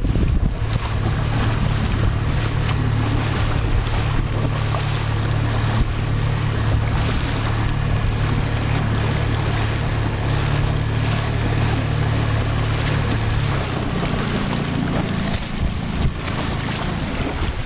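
Outboard motor of a small boat running with a steady low hum, which drops away about three-quarters of the way through. Wind rushes on the microphone and water washes throughout.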